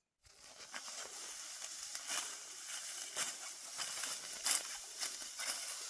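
Dry crackling and rustling with many small snaps, starting suddenly just after the start and running on steadily.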